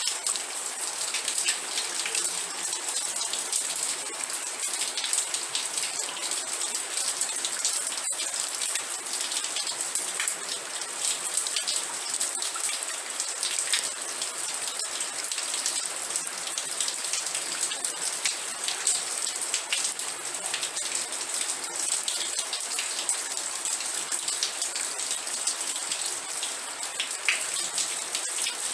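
Steady rain falling, many separate drop hits heard over an even hiss.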